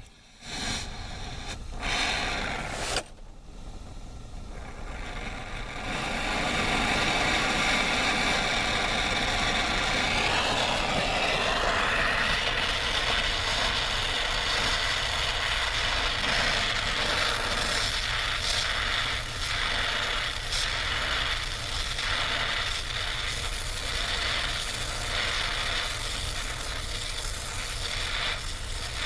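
Brazing torch flame burning with a steady rushing hiss while a copper filter-dryer joint is heated and brazed into a refrigerant line. A few clicks and knocks in the first seconds, then the flame's hiss grows louder and holds steady from about six seconds in.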